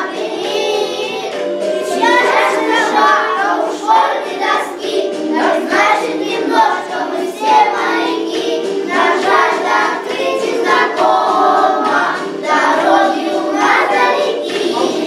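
Children singing together as a choir over a backing track.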